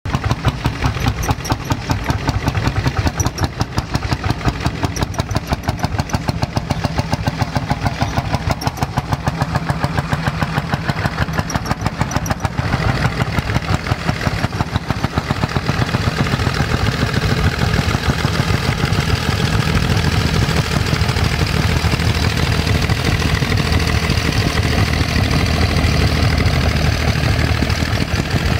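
Vintage tractor engine running with an even, rapid beat; a little under halfway through the sound changes to a denser, busier running note.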